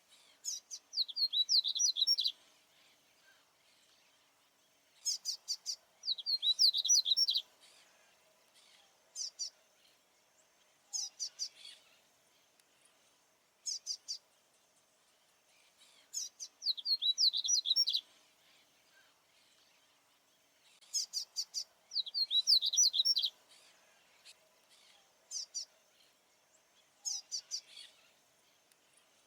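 Male papa-capim baianinho seedeater singing: high twittering phrases of quick notes, each running into a fast trill, repeated every four to five seconds, with short single phrases in between.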